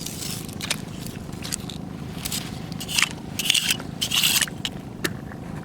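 Irregular scraping and crunching of rocks and shells being shifted and stepped on, with a few louder, sharper crunches just past the middle.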